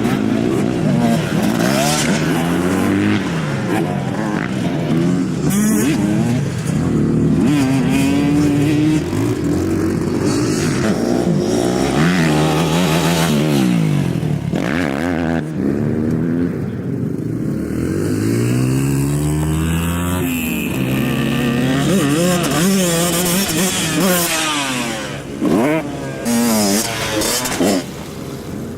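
Several motocross dirt bikes revving on a track, their engines rising and falling in pitch as they accelerate, shift and back off, often overlapping one another.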